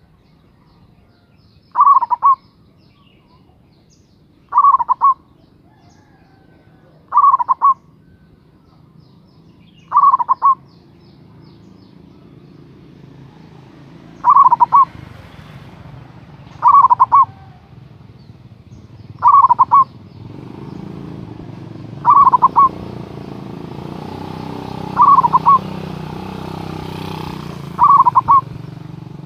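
Zebra dove (perkutut) cooing: a short burst of quick, rolling coo notes repeated about every two to three seconds, eleven times. A low background rumble grows louder through the second half.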